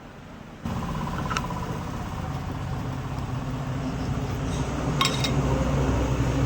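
Ceiling fan motor switched on about half a second in, humming steadily and getting slightly louder as it speeds up, with a few light clinks over it.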